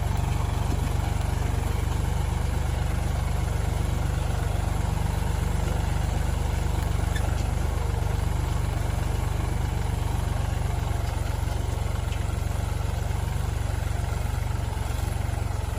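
Tractor engine running steadily, a low, even sound that holds without change.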